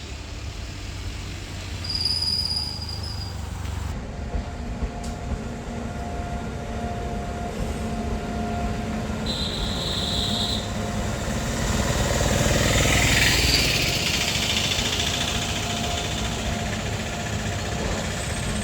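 Freight train running past, a steady rumble of wheels on the rails that grows louder a little past the middle, with a few brief high squeals.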